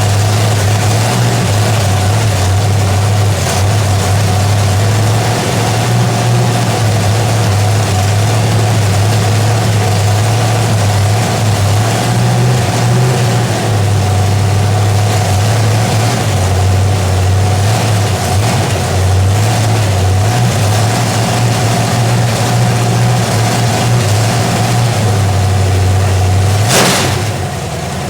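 Chevy 350 small-block V8 with an RV cam, running through open upright headers and idling loud and steady with a slightly wavering note. This is the freshly built engine's first run while its ignition timing is set. A single sharp crack comes near the end, and the engine goes briefly quieter.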